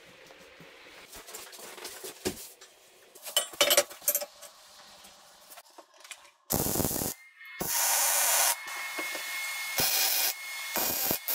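Light clinks and rubbing of tools or parts being handled, then, from about six and a half seconds in, several loud bursts of hissing, each about a second long.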